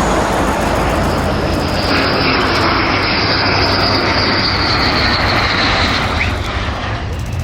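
Airplane engine noise as an aircraft passes close by, loud and steady, with a high whine that slowly falls in pitch and then eases off near the end.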